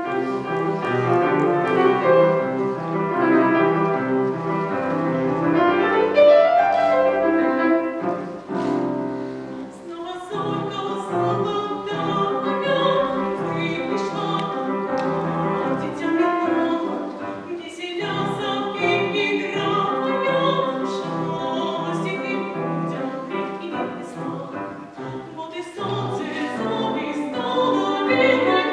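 A child singing in the classical academic style, accompanied by piano.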